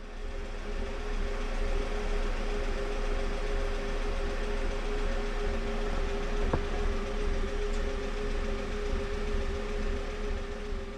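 Car engine idling steadily, heard from inside the cabin: a low rumble with a steady hum over it.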